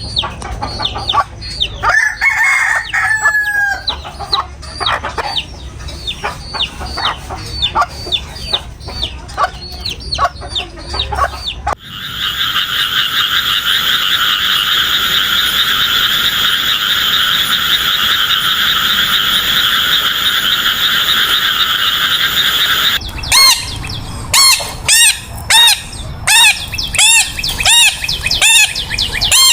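A sequence of animal calls. Chickens cluck in quick succession, with a drawn-out crow-like call about two seconds in. About twelve seconds in, a steady, dense frog chorus takes over. It cuts off near the end for loud bird calls repeated about once or twice a second.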